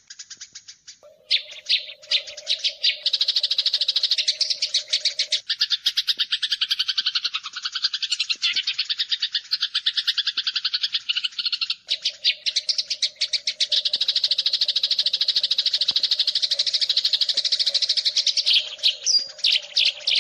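Eurasian tree sparrows (burung gereja) fighting, giving a dense, rapid stream of high chirps with hardly a break. A low steady hum runs underneath for the first few seconds and again through the second half.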